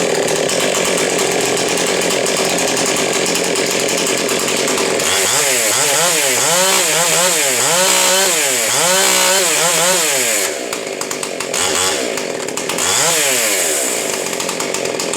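Highly modified, ported Husqvarna 372 XP X-Torq two-stroke chainsaw running, held steady at high revs, then blipped up and down about two times a second for several seconds. It drops lower near the end with a couple more revs.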